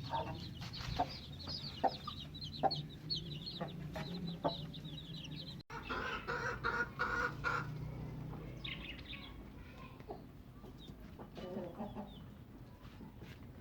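Domestic chickens clucking, with many short high-pitched peeps of chicks in the first half.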